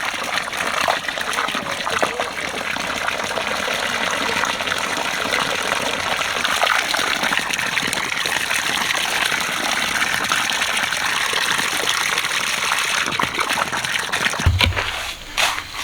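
Water gushing steadily from a pumped hose. Near the end it stops and gives way to a few knocks and thuds.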